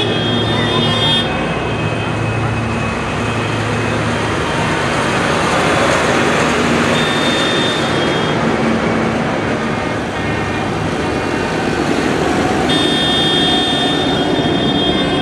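Farm tractors driving past in a line, engines running steadily, with brief steady high tones near the start, in the middle and near the end.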